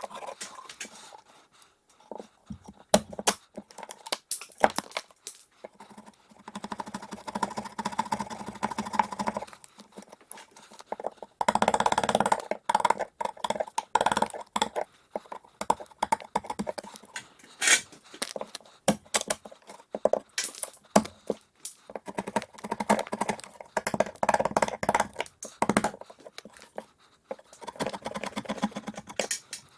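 Carpentry work: irregular knocks and clatter of wood and tools, with a power tool's motor running in several bursts of a few seconds each.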